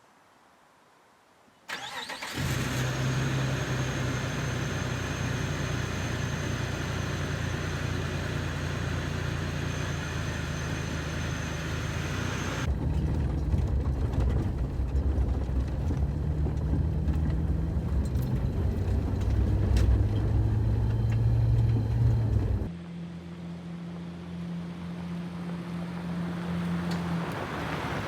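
Car engine running as the vehicle drives, a steady low hum that begins suddenly about two seconds in. The sound changes abruptly twice, about 13 and 23 seconds in, and is quieter after the second change.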